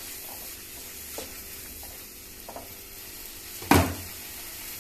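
Green peas, onion and tomato sizzling steadily in an aluminium kadai while a wooden spatula stirs and scrapes through them with light clicks. About three and a half seconds in, one sharp knock of the spatula against the pan.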